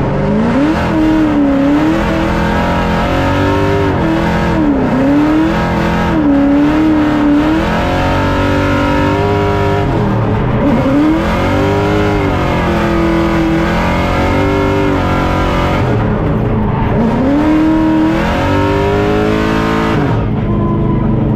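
The Nissan S14's swapped LS3 V8 revving hard through a drift run, heard from inside the cabin, with its pitch climbing and falling again and again as the throttle is worked. Near the end it drops back to a steady low idle.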